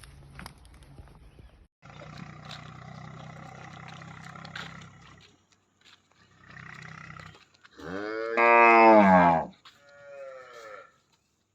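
Cow mooing: low, quiet lowing in the first half, then a loud moo about eight seconds in, followed by a shorter, fainter moo that falls in pitch.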